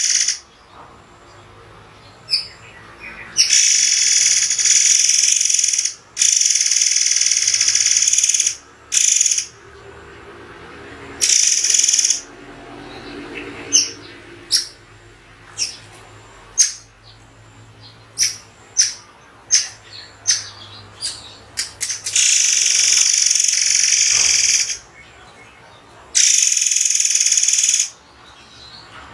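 Murai air songbird calling: harsh, high-pitched call bursts of one to three seconds each, separated by pauses, with short sharp single chirps in between.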